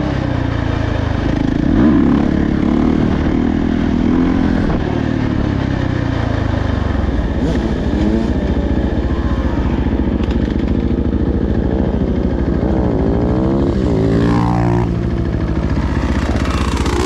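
Dirt bike engine running under throttle, its pitch rising and falling several times in the second half as it revs and shifts gears.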